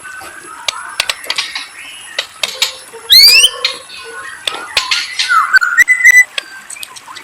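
A murai songbird singing: short whistled notes, chirps and sharp clicks, with one loud rising whistled phrase about three seconds in.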